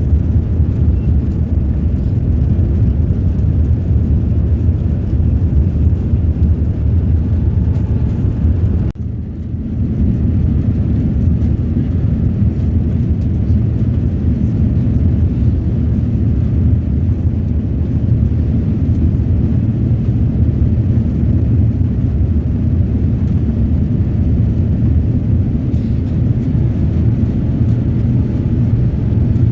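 Jet airliner cabin noise during takeoff and climb: the steady low rumble of the engines and rushing air, heard from a passenger seat. The level dips sharply for a moment about nine seconds in, then the rumble carries on.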